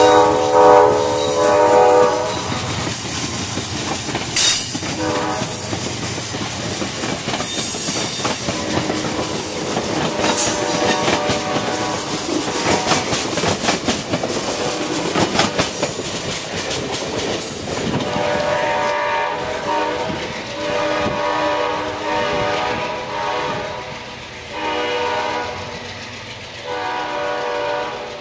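Amtrak passenger train passing close, its wheels clicking and rumbling over the rail joints. The locomotive's air horn sounds at the start, then again in several separate blasts over the last ten seconds as the train pulls away.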